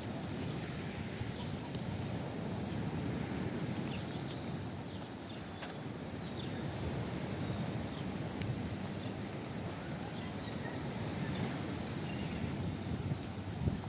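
Outdoor promenade ambience: a steady wash of background noise with faint, scattered clicks and taps.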